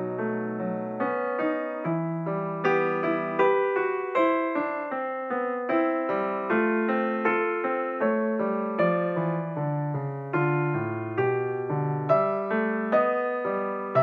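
Background piano music: a slow melody of struck notes, each fading before the next, over lower held notes.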